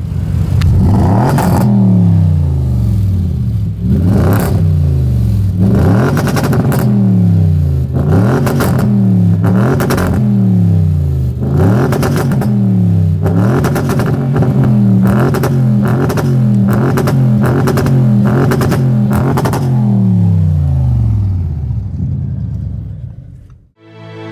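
Audi RS6 C7's twin-turbo 4.0 TFSI V8 revved repeatedly through its sport exhaust, its pitch climbing and dropping back about a dozen times, with sharp cracks at many of the peaks. It fades out near the end.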